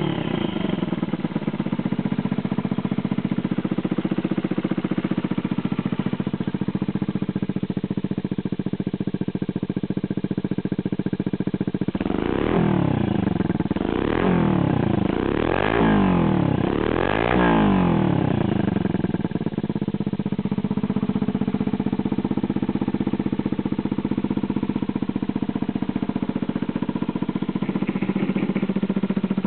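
Small motorcycle engine idling through an aftermarket CR110-style replica muffler, blipped four times about halfway through, each rev rising and falling back, then settling back to a steady idle.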